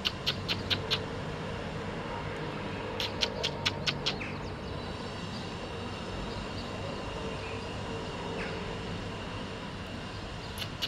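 A small bird chirping in two quick runs of short, high chirps, one at the start and another about three seconds in, over a steady low hum of outdoor background noise.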